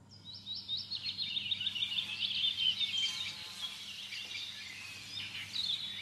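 Small birds chirping and twittering, a dense run of quick high calls that comes in suddenly at the start and goes on throughout.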